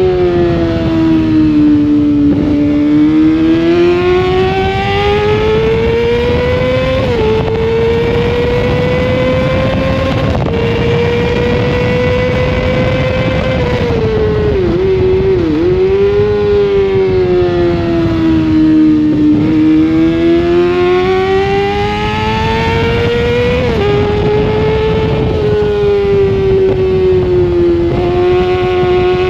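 Onboard sound of a sportbike engine at racing speed, its pitch climbing through the revs and stepping down at each upshift, then dipping quickly through downshifts into corners before pulling up again. A steady rush of wind and road noise runs underneath.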